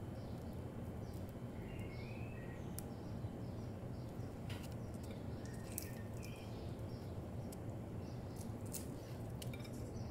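Small birds chirping faintly in short scattered calls over a steady low hum, with a few sharp light clicks.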